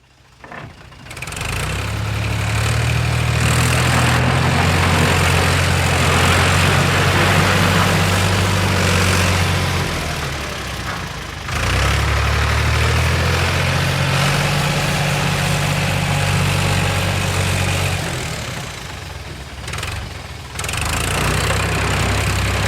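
Heavy engine running at a steady idle, fading in over the first couple of seconds. It drops away twice, about ten and nineteen seconds in, and picks up again each time.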